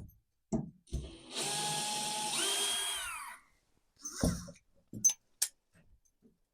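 Cordless drill driving a screw: the motor runs for about two seconds, speeds up partway through, then winds down as the trigger is let go. A few short knocks follow.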